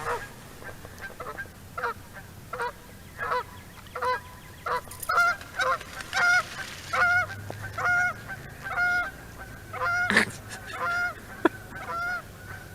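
Geese honking over and over, about one or two calls a second, with a sharp knock about ten seconds in.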